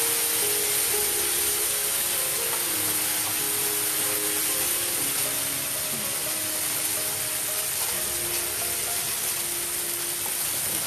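Onions, tomatoes and green chillies sizzling steadily in hot oil in a frying pan, with quiet background music playing over it.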